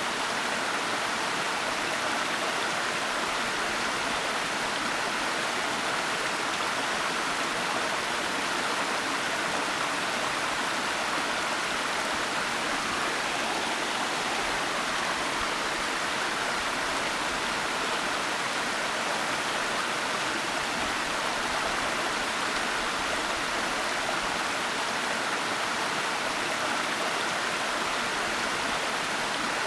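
Waterfall water falling and rushing in a steady, unbroken hiss, with no changes or separate splashes.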